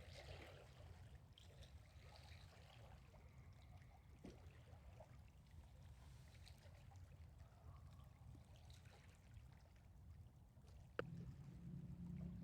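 Near silence: faint low outdoor rumble, with a single click about eleven seconds in followed by a faint, low, steady hum.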